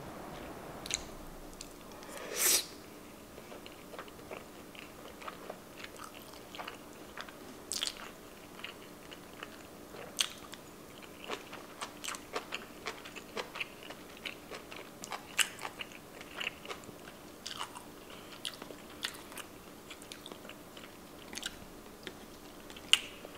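Close-miked chewing of a piece of baked salmon sushi roll: soft, wet mouth clicks and smacks scattered irregularly, with one louder mouth sound about two and a half seconds in.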